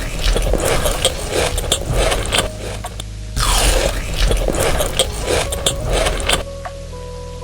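Close-miked crunching as crunchy food is bitten and chewed, in two long crackling stretches with a short pause between, over soft background music.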